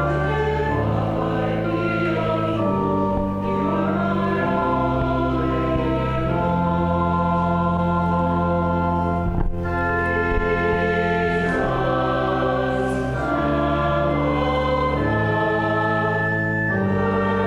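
Congregation singing a hymn with organ accompaniment, long held chords changing every second or two.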